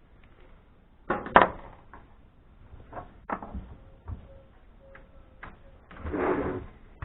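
Scattered knocks and clatters of amplifier parts being handled and set down, the loudest a double knock about a second in, and a short scraping noise near the end.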